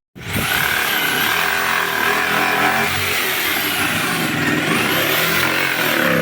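Engine running steadily at a fairly constant speed, with a thin high whine that rises and falls.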